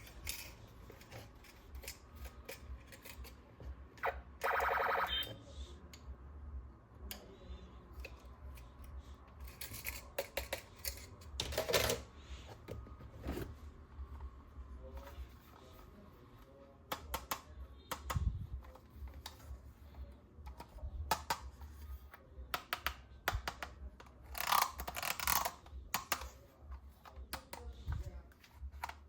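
Plastic toy parts and packaging being handled: scattered clicks, taps and rustles, with a short buzzing tone about four seconds in and again near the end.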